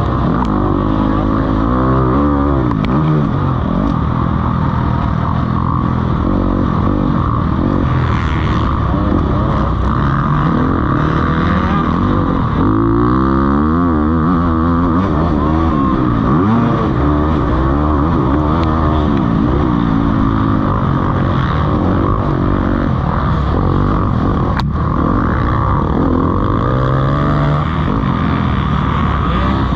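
Several motocross bikes racing, their engines revving up and down as riders accelerate, shift and back off, with overlapping pitches rising and falling throughout.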